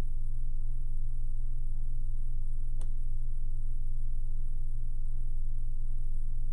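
Steady low electrical hum with a single click a little under three seconds in.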